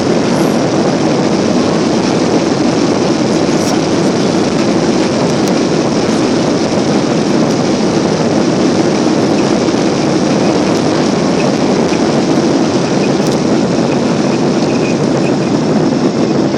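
Boeing 777-300 jet engines at high thrust heard from inside the passenger cabin during takeoff: a loud, steady rush of engine and air noise that does not change.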